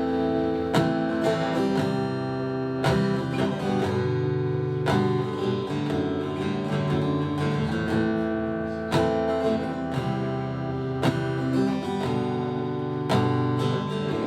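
Acoustic guitar strumming chords in a song's instrumental introduction, with a strong accented strum about every two seconds and lighter strums between.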